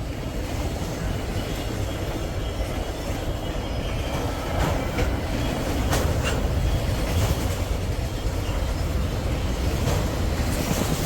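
A train rolling past: a steady rumble of wheels on the rails, with a few sharp clicks from the wheels about four and a half, six and ten and a half seconds in.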